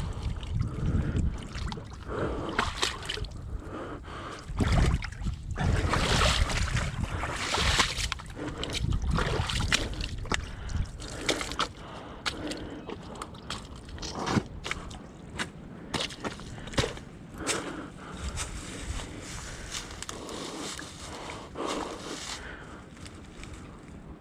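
Water splashing and sloshing in irregular surges, with gasping breaths and wind rumbling on the microphone.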